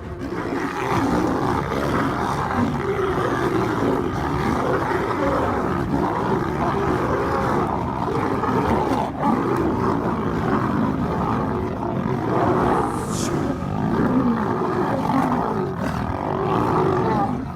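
Animals growling and roaring without a break, the sound rising and falling in rough surges.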